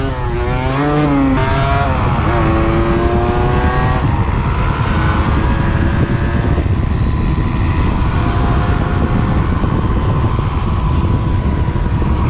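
125 cc enduro motorcycle engine under hard riding. Its pitch wobbles up and down near the start, climbs in steps through the gears between about one and four seconds in, then holds a fairly steady high pitch. Heavy wind rumble runs underneath.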